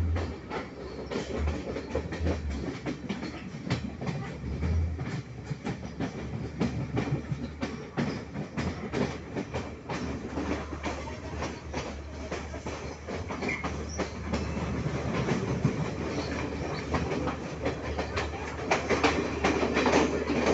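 Udarata Menike passenger train running, its wheels clicking steadily over the rail joints above a constant low rumble, growing louder near the end.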